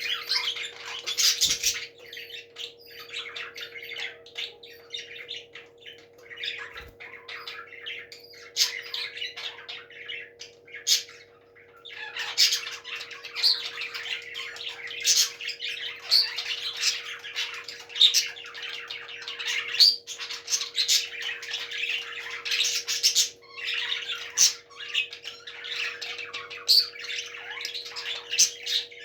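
Parrots squawking and chattering in a dense run of harsh calls, sparser at first and almost unbroken from about halfway through, over a steady low hum.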